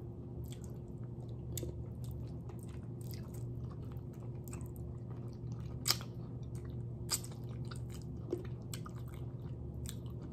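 Close-up eating sounds: chewing on adobo-braised chicken feet, with irregular wet mouth clicks and smacks, the sharpest about six and seven seconds in, over a steady low hum.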